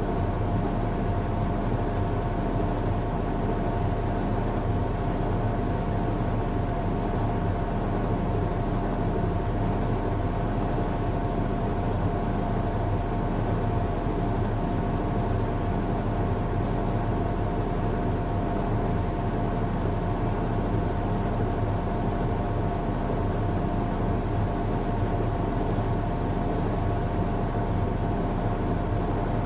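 Washing machine running on a strong cycle: a steady motor drone with a low hum and a constant whine.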